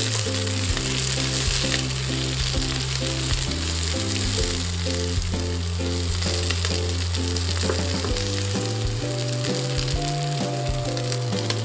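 Chopped onion, garlic and chili frying in oil in a nonstick pan, a steady sizzle, over background music with a bass line and repeating notes.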